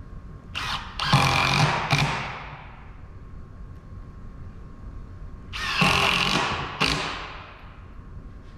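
Power drill driving wood screws into construction lumber, in two bursts of about a second and a half each, a few seconds apart.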